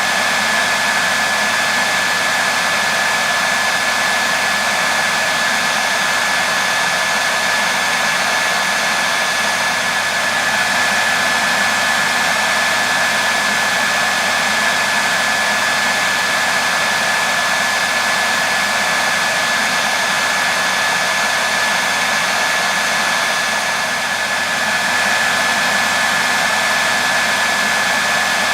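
Hair dryer running continuously: a steady rush of blown air with a constant high motor whine.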